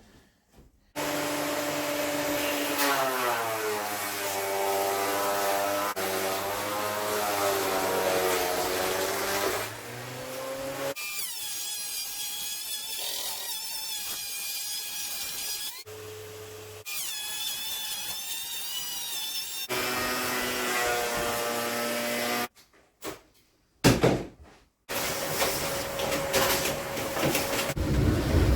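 Power saw cutting through a length of 4x4 timber, the motor's pitch sagging under load and climbing back. It comes in several short stretches with abrupt breaks between them.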